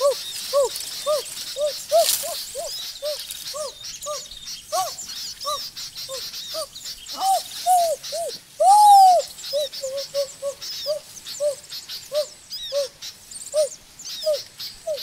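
A bird calling over and over in short notes that rise and fall, about two a second, with one longer, louder call about nine seconds in. A faint high chirping runs behind it.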